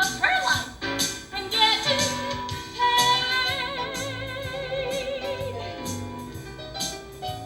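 A show tune sung live with instrumental accompaniment. Through the middle, a voice holds a long note with a wide vibrato before the phrase ends.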